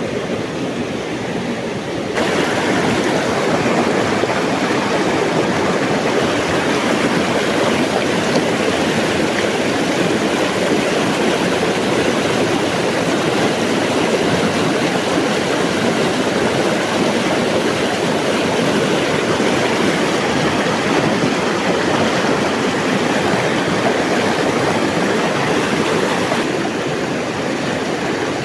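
River water rushing steadily. It grows louder and brighter about two seconds in and eases a little near the end.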